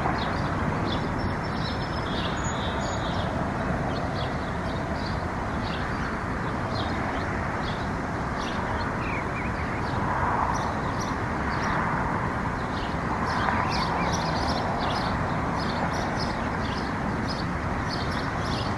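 Small birds chirping in short, rapid notes over a steady background rumble.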